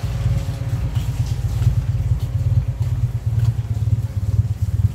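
Toyota Starlet SE-G's 1.3-litre four-cylinder EFI engine idling steadily, its exhaust giving a fast, even low pulsing.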